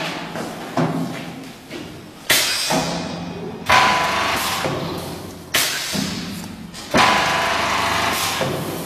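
A series of sudden metallic clangs, about five, each ringing and dying away over a second or two, over a steady low machine hum.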